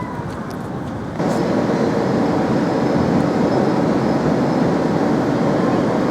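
Manyosen tram running on rails, a steady rumble that steps up suddenly in loudness about a second in and then holds.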